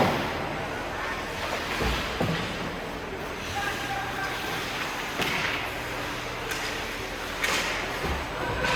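Ice hockey game heard in a rink: distant voices and arena noise, with a few sharp knocks of play against the boards, about 2, 5 and 7.5 seconds in.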